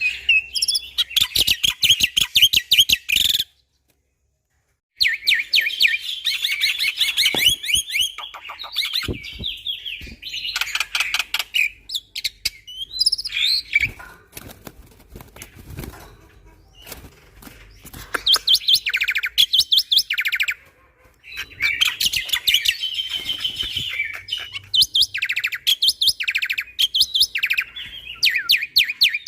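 Black-winged myna (jalak putih) singing in a long run of fast, rattling chatter with sharp whistled notes, broken by a brief silence about four seconds in.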